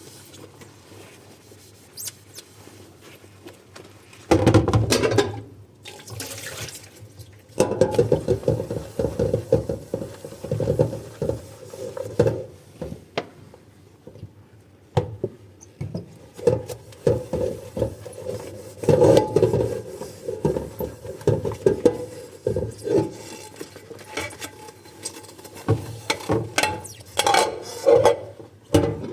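Dishes being washed by hand at a sink: running water and splashing with irregular scrubbing and handling of the dishes. The sound starts about four seconds in after a quieter opening.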